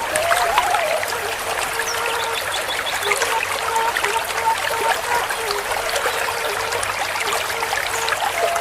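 River water flowing and trickling, a steady babble full of small splashes. Underneath it run soft held notes of background music that change pitch now and then.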